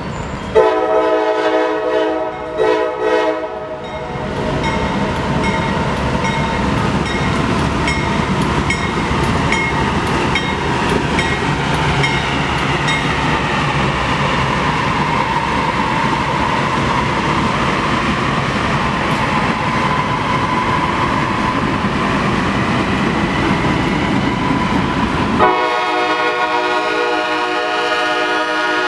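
Norfolk Southern freight train passing close by: a multi-note diesel locomotive horn sounds about half a second in for roughly three seconds, then the locomotives' diesel engines and the steel wheels clacking over rail joints give a steady loud rumble as the freight cars roll past. The horn sounds again near the end.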